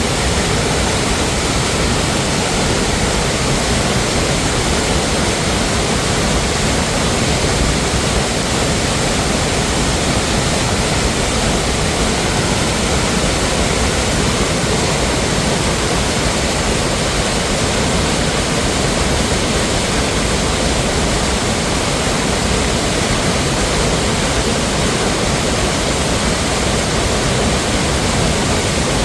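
Steady, loud rush of a mountain waterfall, an even wash of noise with no breaks.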